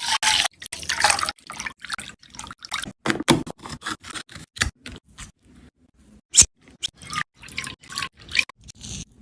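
Close-miked mango shake preparation: a run of short, separate scraping and wet squishing sounds as the fruit is handled, with one sharp knock about six seconds in.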